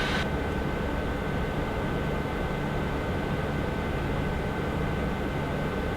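Steady cockpit noise of a private jet climbing: an even rush of airflow and engine noise with a faint, steady high-pitched whine.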